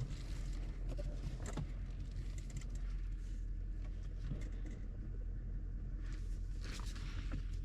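A steady low machine hum, like an engine or motor running, with scattered clicks and light clatter over it.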